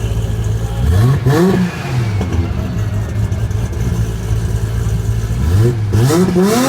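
A car engine idling, blipped twice in quick succession about a second in and again near the end, the revs rising and dropping back to idle each time.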